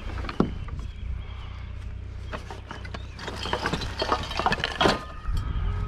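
Footsteps and scattered light knocks over a steady low rumble, with the knocks coming thicker in the second half.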